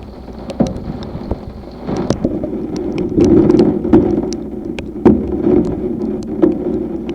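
Heavy thunderstorm rain pelting down, with many irregular sharp taps of drops striking a hard surface and a louder surge of rushing noise in the middle.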